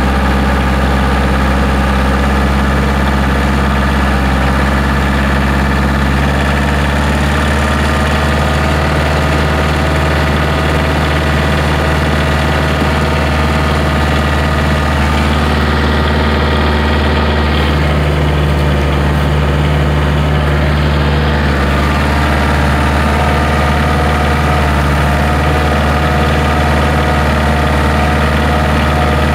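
Kioti DK40 tractor's diesel engine running steadily while towing a truck, with small shifts in engine pitch about seven and eighteen seconds in.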